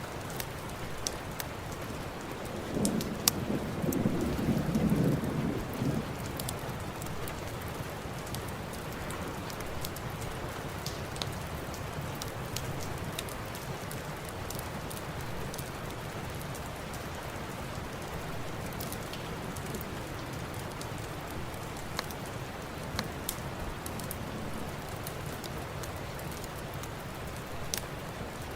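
Steady rain falling, with scattered sharp crackles from a fireplace. A low rumble of thunder swells about three seconds in and dies away a few seconds later.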